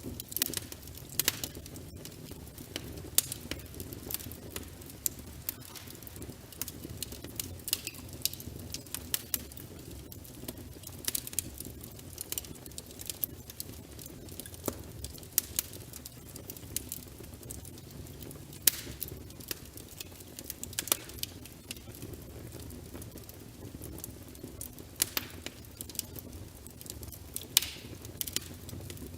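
Log fire crackling in a fireplace: irregular sharp pops and snaps over a low, steady rumble of the flames.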